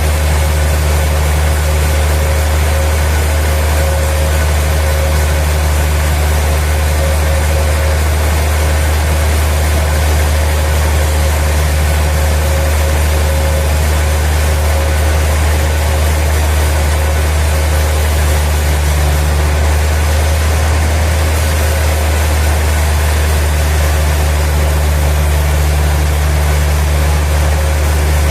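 Sawmill machinery running at a steady pace, a loud constant low drone with an even hiss over it.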